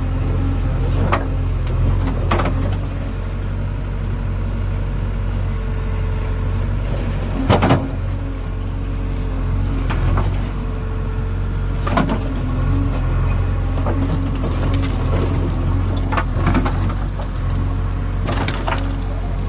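JCB 3DX backhoe loader's diesel engine running steadily under load, with sharp metallic knocks from the bucket and arm every few seconds as it digs and loads soil.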